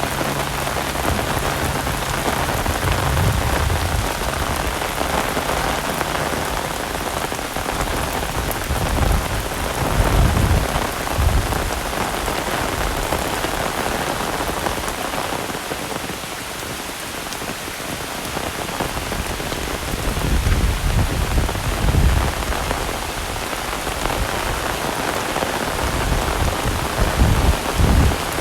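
Heavy rain falling steadily, a dense even hiss of drops on surfaces, with low rumbles swelling up several times.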